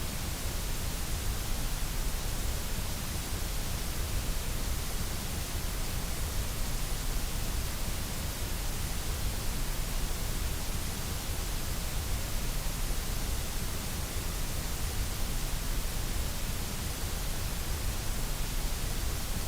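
Steady white noise: an even, unchanging hiss with no breaks or changes.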